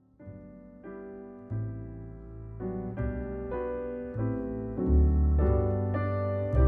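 Piano music begins about a quarter second in, chords struck every half second or so and building in loudness, with heavier bass notes from about five seconds in.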